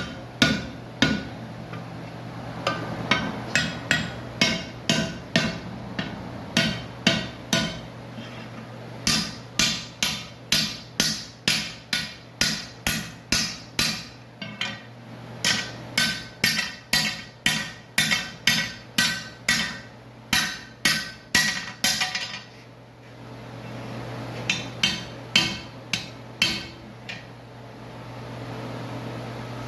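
Hammer blows on hot iron over an anvil, forging a scroll. A steady run of ringing strikes comes about two a second, breaks off briefly about three-quarters of the way through, and resumes for a few last blows, over a steady low hum.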